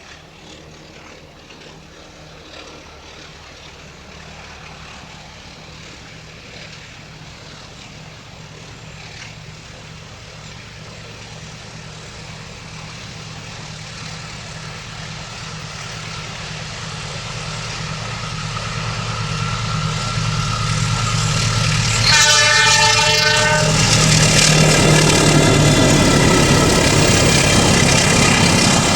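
A train approaching, its diesel locomotive's engine hum growing steadily louder, then one horn blast lasting about a second and a half around 22 seconds in, and the loud rumble of the train passing close.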